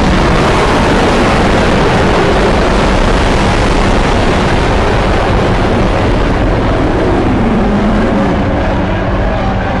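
A custom-made monster roar sound effect: one long, loud, rumbling roar that holds steady and begins to ease off near the end.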